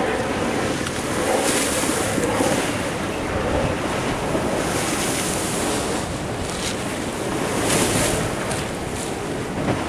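Ocean surf washing in, in repeated surges a few seconds apart, with wind buffeting the microphone.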